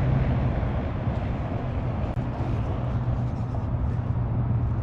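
Steady low hum of a running vehicle over a constant haze of outdoor background noise.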